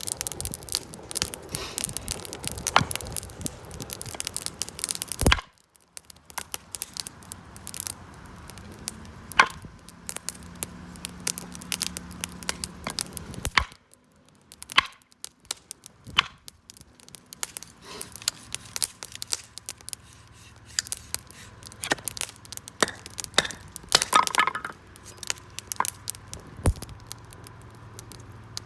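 Wood campfire crackling, with frequent irregular sharp pops and snaps from the burning wood.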